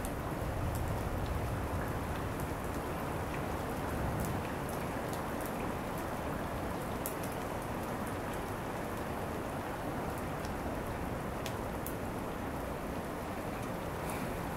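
Steady rain during a thunderstorm: an even hiss with scattered sharp ticks of drops striking.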